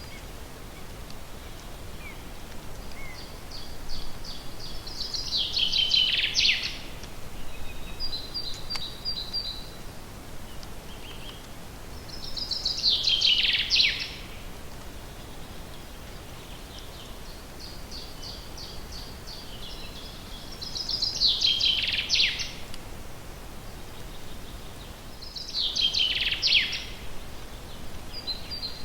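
Songbird singing in a forest: four song phrases about every seven to eight seconds, each a run of quick high notes that ends in a louder falling flourish. Shorter high chirps come in between, over a steady faint background hiss.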